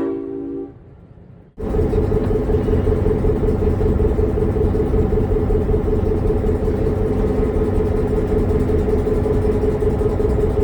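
The air horn of EMD diesel locomotive Western Pacific 1503 ends its chord under a second in. After a brief lull, the locomotive's diesel engine runs with a loud, steady rumble and a constant hum.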